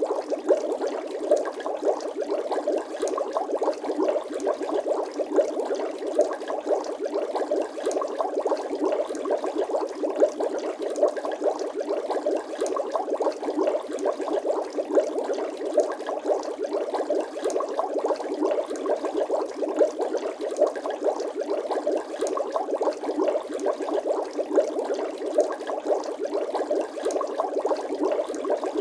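Bubbling water sound effect: a dense, steady stream of small bubble blips and gurgles, with no bass.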